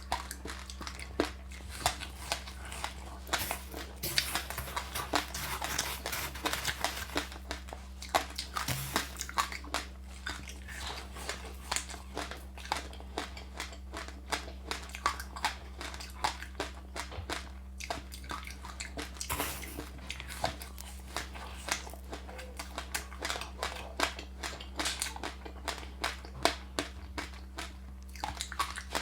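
Close-miked chewing and crunching of passionfruit with sesame seeds: dense, irregular crisp crunches and small crackles, several a second, as the seeds are bitten and chewed.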